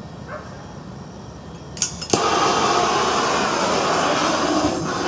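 Foundry furnace burner starting up: a few sharp clicks about two seconds in, then a sudden loud, steady rushing noise from the propane burner and its vacuum-cleaner-motor air blower.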